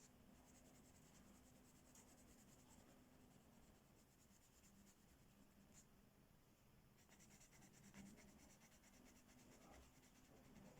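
Faint scratching of a coloring tool on paper: quick back-and-forth strokes in several runs with short pauses, as an area of the page is filled in.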